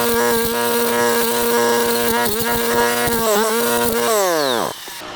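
Stihl Kombi brush cutter with a three-blade brush knife, its engine running at high speed. Its pitch dips briefly twice as it takes load. Near the end the throttle is released and the engine winds down.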